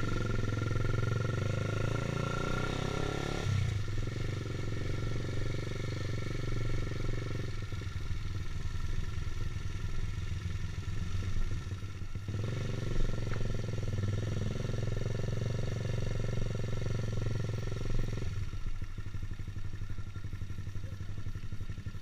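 Honda CBR150R's single-cylinder engine running as the motorcycle is ridden. The engine note changes abruptly several times.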